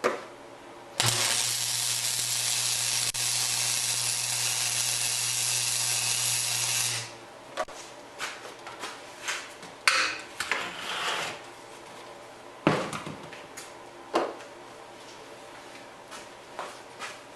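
Arc welder laying a tack weld on steel: a steady arc hiss with a low electrical hum, starting about a second in and lasting about six seconds, then stopping abruptly. Afterwards a few light clanks and knocks.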